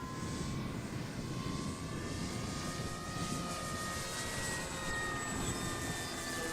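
Electric motor and propeller of a Flex Innovations RV8 radio-controlled plane in flight at part throttle: a steady whine that drifts slowly in pitch as the plane moves, over a low rumble of wind.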